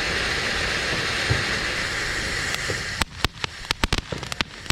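Lawn sprinkler running: a steady hiss of spraying water, then from about three seconds in a run of sharp, irregular ticks.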